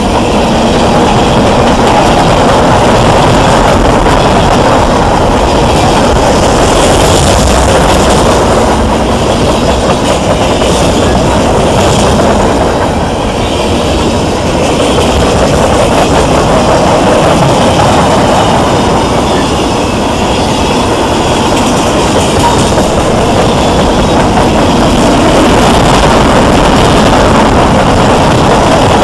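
A train rolling past at close range: a steady, loud noise of its cars' wheels running on the rails, dipping slightly about halfway through.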